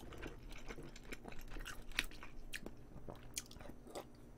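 Close-miked chewing of a mouthful of galbijjim (Korean braised short ribs): wet mouth sounds with irregular sharp clicks.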